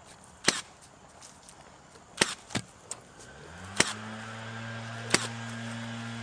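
A staple gun firing staples into wood: about six sharp shots at uneven spacing. About halfway through, a motor spins up and keeps running with a steady low hum.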